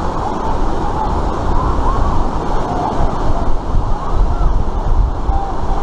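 Rushing white water on an artificial whitewater slalom course, a loud steady rush, with wind buffeting the microphone.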